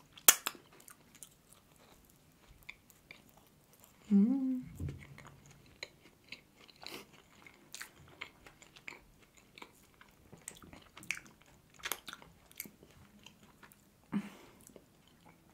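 Chewing of a soft, cream-filled glazed doughnut, with many small wet mouth clicks and a sharp smack just after the start. A brief vocal sound about four seconds in.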